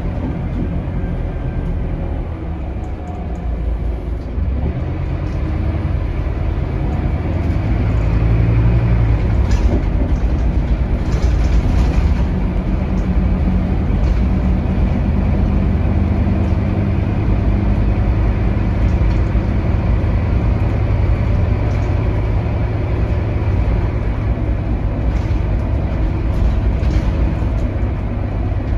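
Scania K280UB bus with its Scania DC9 five-cylinder diesel, heard from inside the cabin while driving: a steady low engine drone that grows louder about four to eight seconds in, then holds steady, with a few light rattles.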